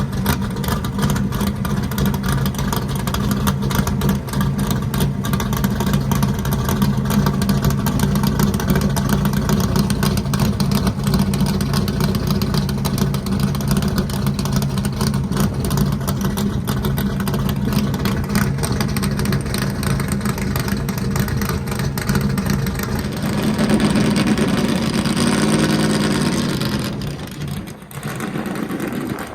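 A truck engine runs steadily under driving noise. About three-quarters of the way through the engine note wavers and shifts, then the sound drops off briefly near the end.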